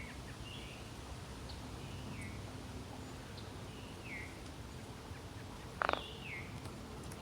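Birds calling: short chirps that fall in pitch, every second or two, with one louder call about six seconds in, over a low steady background noise.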